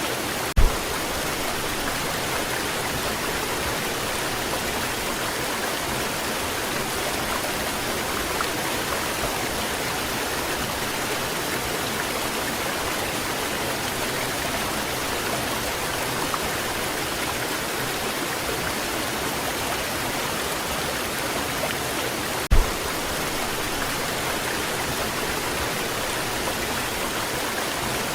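Waterfall pouring steadily: an even rushing hiss of falling water. Two brief low thumps cut in, one just after the start and one about three-quarters of the way through.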